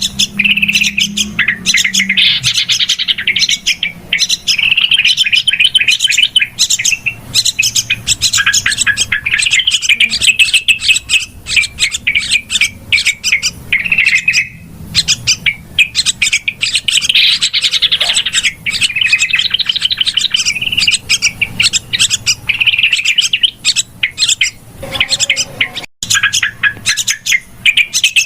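Yellow-vented bulbuls (trucukan) chattering in a dense, fast stream of high chirps, with only brief breaks. This is a 'ribut' (busy) lure call used to draw in wild bulbuls.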